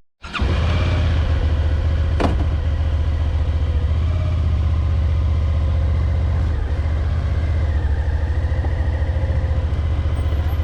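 Motorcycle engine running steadily at a constant speed, a low even hum, with one sharp click about two seconds in.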